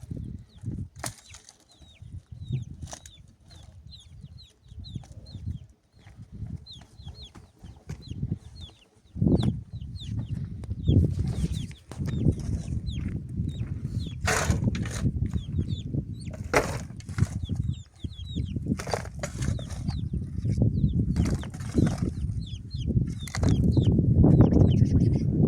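Birds chirping repeatedly in short high notes, with scattered knocks and a low rumbling noise that gets louder in the second half.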